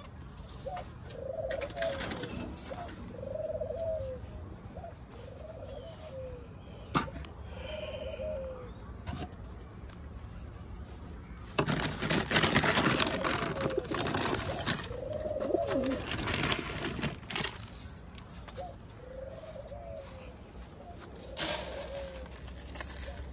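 Homing pigeons cooing repeatedly in a loft, a string of low arched coos one after another. About halfway through there is a loud burst of rustling and wing flapping lasting several seconds.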